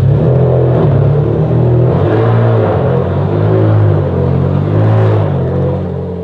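Ferrari Enzo's V12 through a Tubi-style straight-pipe exhaust, loud, its pitch rising and falling several times as it is revved or pulls through the gears, fading somewhat near the end.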